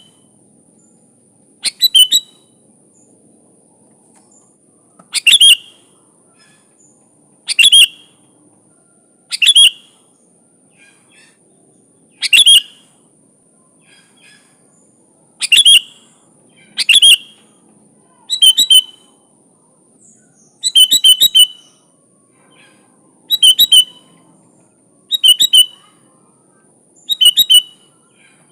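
Sooty-headed bulbul (kutilang) singing: short, loud chirping phrases under a second long, repeated every one to three seconds. A faint steady high-pitched tone runs underneath.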